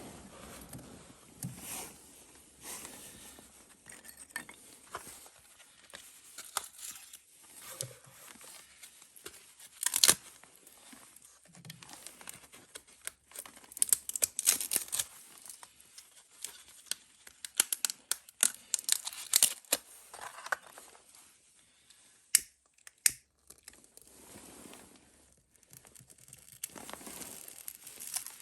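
Dry birch bark and kindling crackling and tearing, with irregular sharp snaps scattered through it.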